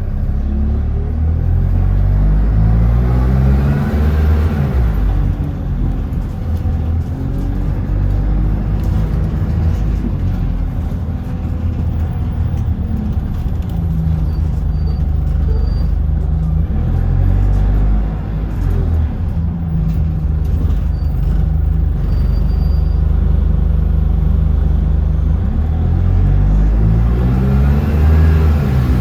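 City bus engine running under way. Its pitch rises several times as the bus accelerates and drops back between gear changes, over a steady low rumble.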